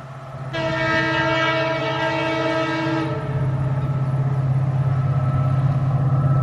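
Horn of an Indian Railways WDP 4B diesel locomotive sounding one long, multi-tone blast of about two and a half seconds. Under it is the low steady drone of the locomotive's diesel engine, which grows louder as the train approaches.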